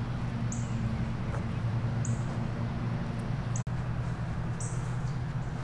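A small bird giving a short, high, thin chirp about every second and a half, over a steady low hum.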